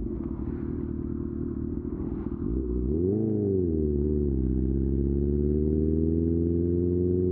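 Honda CB1000R's inline-four engine through an Akrapovic exhaust while riding. The engine runs steadily and a little quieter at first. About three seconds in the throttle opens: the revs rise and drop quickly, then climb slowly and steadily under load.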